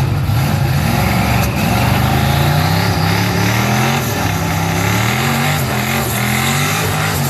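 Twin-turbocharged Ford Windsor V8 in a drag-race Mustang running at low speed, its note rising and falling several times as the throttle is worked.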